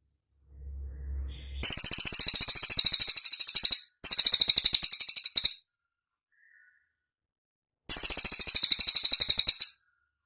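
Cililin bird song: three loud, very fast high-pitched trills, each lasting one and a half to two seconds, with short pauses between them. A faint low rumble comes just before the first trill.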